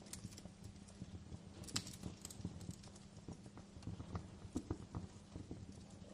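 Fireplace crackling: irregular sharp pops and snaps of varying strength over a steady low rumble.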